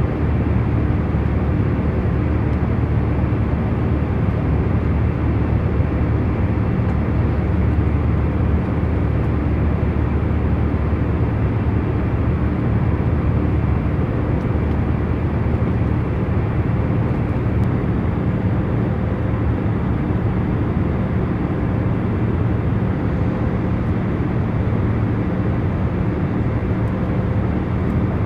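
Jet airliner cabin noise in cruise flight: a deep, even rush of engines and airflow with a faint steady hum underneath, unchanging throughout.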